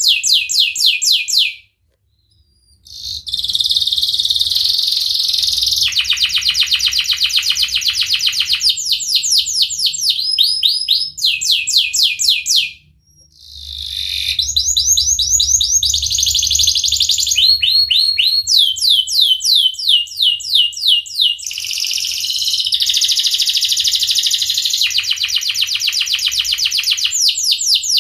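Domestic canary singing at length: long rapid rolls and trills of repeated notes, broken by two brief pauses, about two seconds in and again near the middle.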